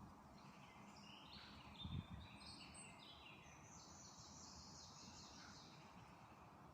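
A songbird singing faintly over a steady background hiss: one phrase of rapid short notes, lasting about five seconds and rising in pitch toward its end. There is a brief low thump about two seconds in.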